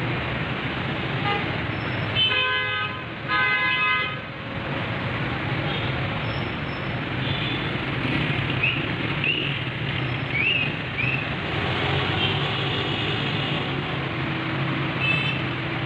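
Steady road traffic noise with a vehicle horn sounding twice in a row about two and three seconds in.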